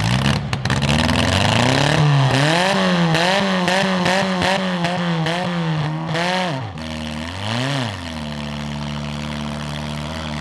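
Demolition derby compact car engine revved hard, its pitch climbing and falling over and over. About 7 s in it drops to a steady lower run, with one short blip a second later.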